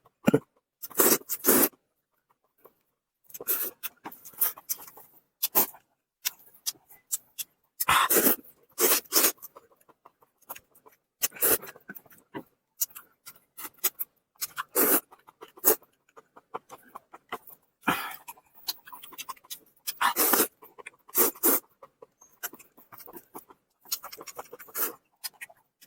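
Close-miked chewing and mouth sounds of a person eating, in irregular short wet bursts with brief pauses between.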